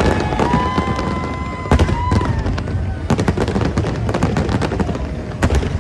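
New Year fireworks display going off: a dense run of bangs and crackles one after another, with long high whistling tones over them.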